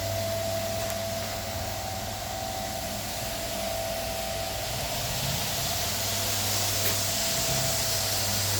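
A machine used for semi-dry floor screed work runs steadily, giving a constant hum with a whine above it over a broad hiss.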